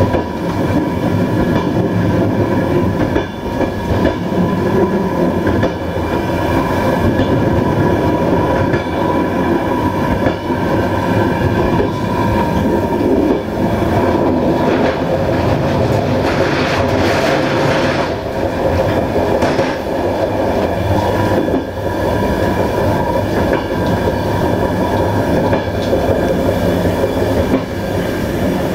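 Passenger train rolling along the track, heard from aboard the rear coach: a steady rumble of wheels on rail with a constant hum and occasional clacks over rail joints. About halfway through it turns louder and hissier for a few seconds.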